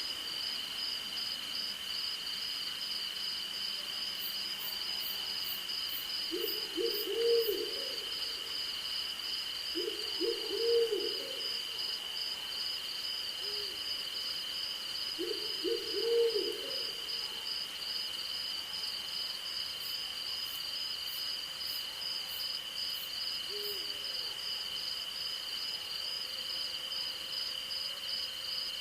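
An owl hooting in three louder phrases of several notes, each about four seconds apart, with a few fainter single hoots later. Under it runs a steady night chorus of crickets and insects: one holds a continuous high trill while another pulses rapidly above it.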